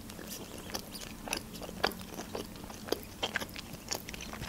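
A person chewing and biting fried pelmeni dumplings: a run of soft, irregular mouth clicks.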